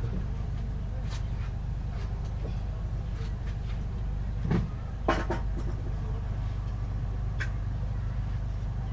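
A steady low mechanical hum, with scattered light clicks and knocks and a louder pair of knocks about halfway through.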